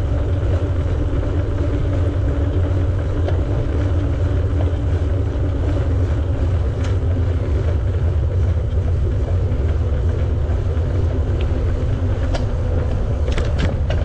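Wind rushing over the microphone and bicycle tyres rolling during a ride: a steady low rumble, with a few faint clicks near the end.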